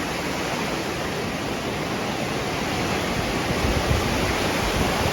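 Steady rushing noise of the sea's surf washing in at high tide.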